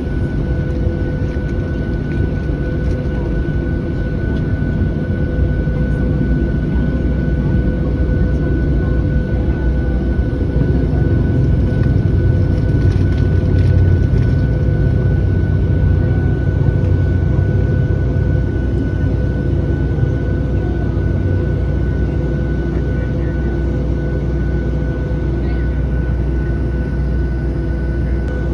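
Cabin noise of a Boeing 737-700 on the ground with its engines at idle: a steady low rumble under a constant whine, swelling slightly midway.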